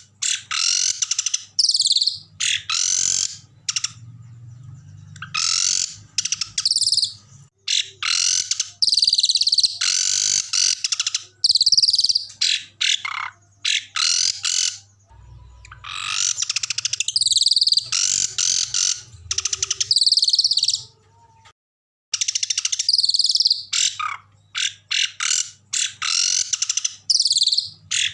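Recorded small songbird song: loud, high-pitched, harsh rapid trills and chattering phrases in bursts of a few seconds, with a brief silent break about three-quarters of the way through.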